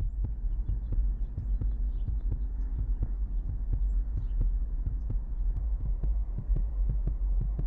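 A steady low rumble with many soft, irregular thumps through it.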